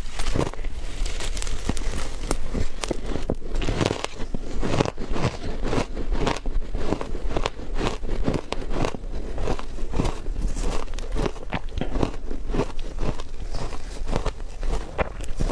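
Close-miked biting and crunching into frozen matcha ice, with many rapid, irregular sharp crunches and crackles.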